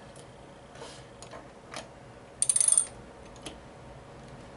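A screwdriver turning a post's screw into a T-nut on a pinball playfield: a few faint taps, then a short burst of rapid ratcheting clicks about two and a half seconds in.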